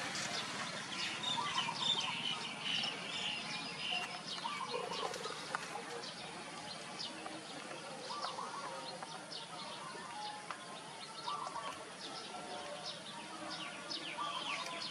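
Birds chirping and twittering: many short, high calls, often quick downward sweeps, overlapping throughout.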